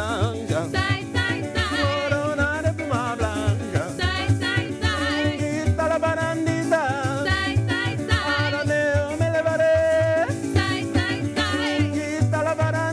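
A band playing a Latin folk song live, with a singing voice over a steady beat.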